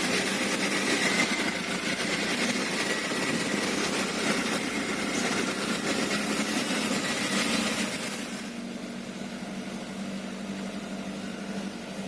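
Hino Dutro light truck's diesel engine running while the truck carries an overloaded sand load. The sound is steady, then drops to a noticeably quieter level about eight seconds in.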